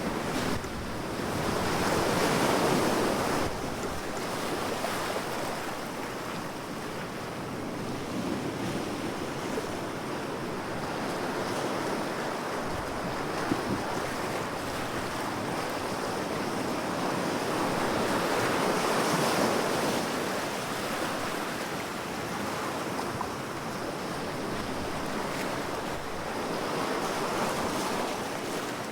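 Ocean waves breaking and washing on a shore, a steady rush that swells and eases every several seconds, with some wind noise on the microphone.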